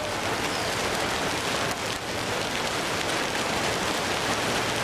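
Hail and rain pelting down in a dense, steady downpour, with a few sharper hits of hailstones striking.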